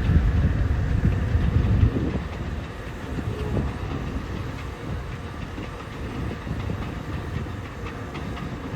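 CSX freight train rolling past, a low rumble with wheels clicking over the rails, loudest in the first two seconds.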